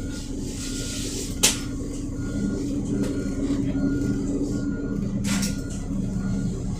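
Volvo B7RLE single-deck bus's diesel engine running steadily after a difficult start. A faint short beep repeats about twice a second, with one sharp click about a second and a half in and a brief hiss of air a little after five seconds.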